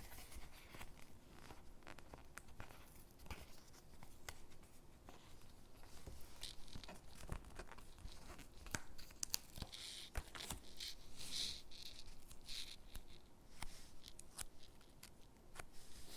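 Stickers being peeled off their backing sheet and pressed onto gingerbread-character cutouts: short ripping rasps, with a run of them about two-thirds of the way through, among scattered small taps and paper rustles.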